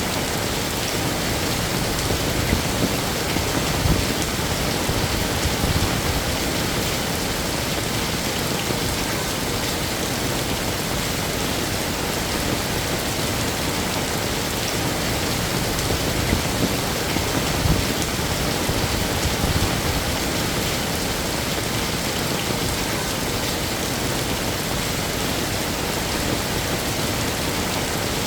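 Heavy rain falling steadily, a dense even hiss of drops on hard surfaces with small irregular spatters.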